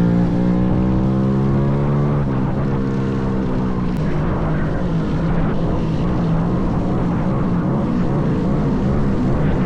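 Small minibike engine running at a fairly steady speed, its pitch holding level; the note turns rougher about four seconds in.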